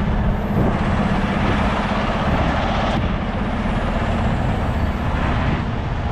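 Heavy truck's diesel engine running steadily, heard from inside the cab, with a louder rushing noise for about two seconds starting about a second in.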